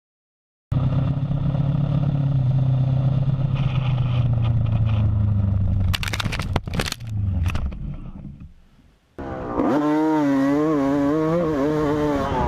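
Motorcycle engine running steadily, then a clatter of sharp knocks and scrapes about six seconds in as the engine sound dies away. Near the end another engine comes in abruptly, its pitch wavering up and down.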